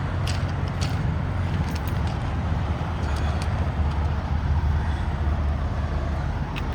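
Steady low rumble of idling diesel truck engines in a truck-stop parking lot, with a few light clicks scattered through it.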